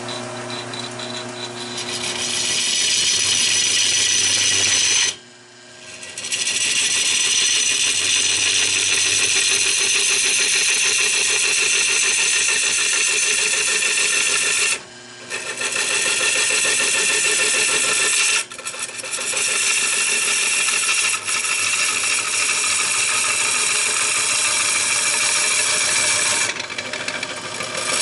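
Wood lathe spinning a fatwood bowl blank while a turning tool cuts into the wood, a steady hissing scrape that stops briefly three times.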